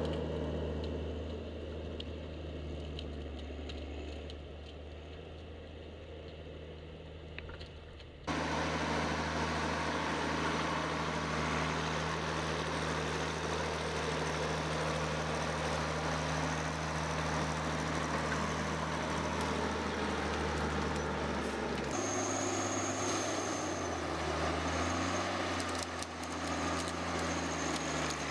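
A machine's engine running steadily, with a low hum; the sound changes abruptly about eight seconds in and again about twenty-two seconds in.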